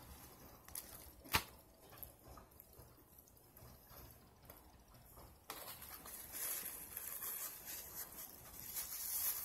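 Close-up wet chewing and mouth sounds from eating a burger, with one sharp click about a second and a half in. A hissy rustle sets in about halfway through and stays.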